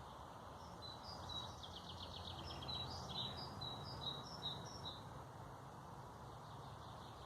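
A songbird singing a phrase of short, high, repeated notes with a quick trill in it, over a steady, faint low background rush.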